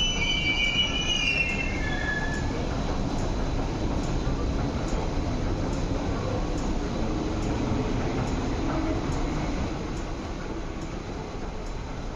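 Metro-Cammell-built MLR electric train moving along the platform: a steady rumble that drops off about ten seconds in, with a high wheel squeal sliding down in pitch over the first two seconds.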